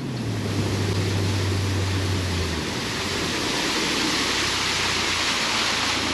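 Boat running across the water at speed: a steady low engine hum under a loud rush of wind and water. The engine note drops about two and a half seconds in.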